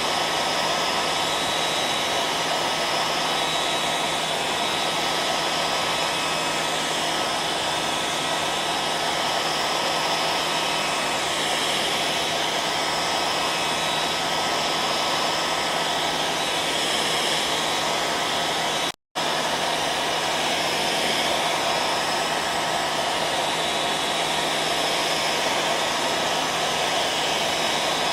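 Hair dryer running steadily, a dense whooshing hiss with a faint steady hum and whine under it. About two-thirds of the way through, the sound cuts out for a split second and then carries on unchanged.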